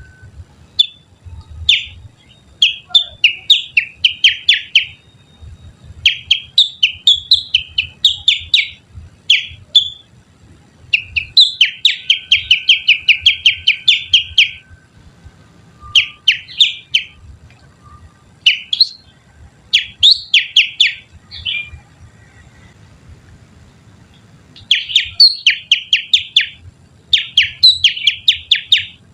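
A person whistling through the fingers to imitate the call of a kutilang (sooty-headed bulbul), as a lure call. Runs of quick, sharp chirps lasting a few seconds each, broken by short pauses.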